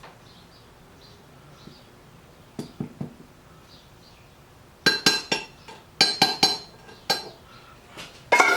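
Hard metal pieces clinking against each other, a run of sharp ringing clinks in quick groups, after a couple of duller knocks.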